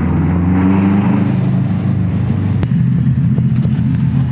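Car engine running steadily, with a single sharp click about two and a half seconds in.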